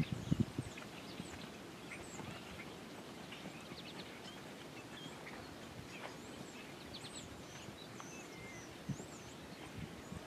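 Small birds chirping and whistling now and then over a faint steady outdoor hiss. A brief low rumble in the first half-second.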